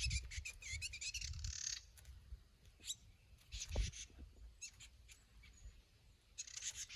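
Birds chirping in quick, wavering bursts during a fight: a busy bout over the first two seconds, a short one about halfway through and another near the end, over a low rumble.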